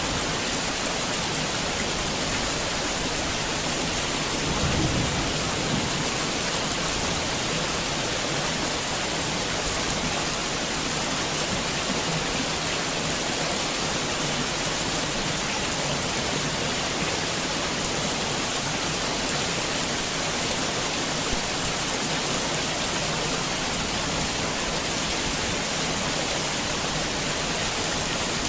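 Heavy rain falling steadily, a dense even hiss of drops. About five seconds in there is one brief low thump.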